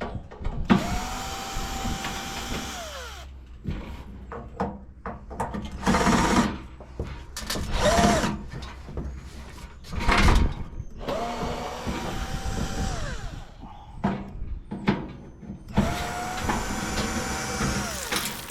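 Cordless drill backing out screws: three runs of about two seconds each, the motor speeding up to a steady whine, holding, then winding down. Loud clanks and rattles come in between the runs.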